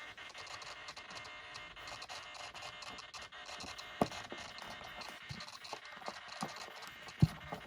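Small handling noises of parts being worked by hand on a workbench: faint scratching and light ticks, with a sharp click about four seconds in and a louder one near the end.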